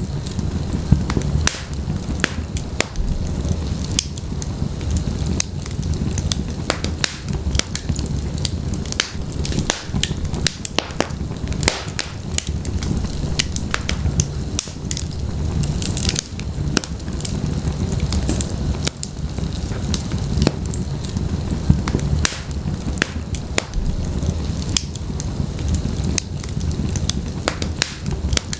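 Wood fire of logs burning in a fireplace: a steady low rumble of flame with frequent irregular crackles and sharp pops from the burning wood.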